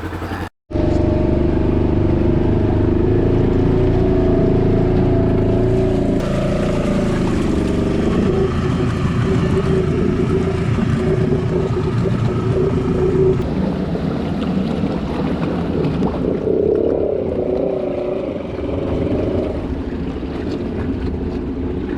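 Side-by-side UTV engine running steadily under load, the pitch rising and dipping a little, as the machine is driven through deep water. The sound cuts out completely for an instant just after the start.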